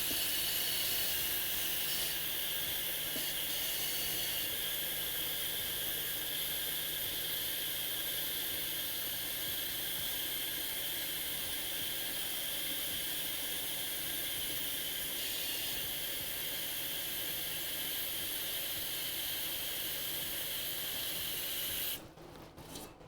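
Hot water running from a kitchen tap into a cooking pot as it is filled about halfway, a steady hiss that stops suddenly near the end.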